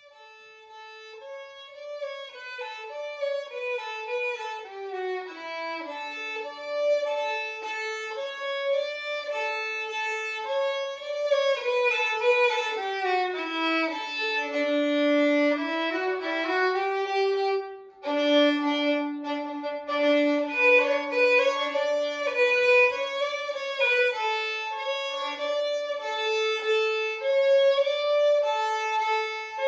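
Background music: a violin playing a melody, with a brief break a little before the middle.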